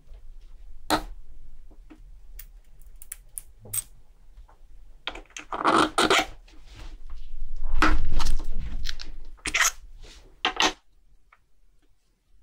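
Hand work on a watch: scattered small clicks and taps of metal parts and tools, with two longer rubbing or scraping passes about halfway through, the second the loudest.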